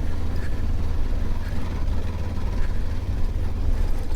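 Mutt motorcycle engine running steadily as it is ridden along a dirt trail, a continuous low rumble.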